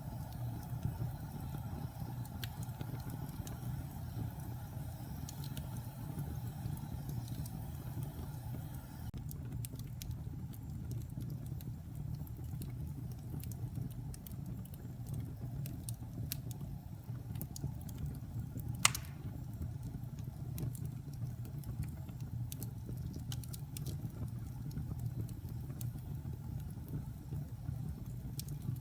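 Wood fire burning in a fireplace: a steady low rumble of flames with frequent small crackles, and one louder pop about two-thirds of the way through.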